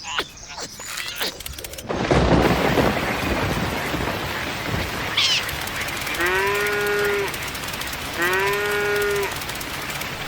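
Two drawn-out, moo-like animal calls about two seconds apart over a steady rushing noise that starts about two seconds in.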